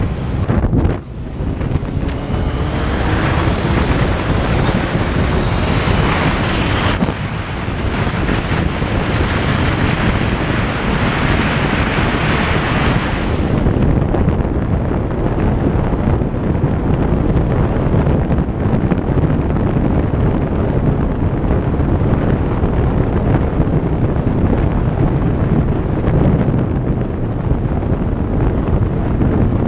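Heavy wind buffeting the microphone on a moving motorcycle, a steady loud rush with the machine's running noise mixed in underneath. The rush drops briefly about a second in.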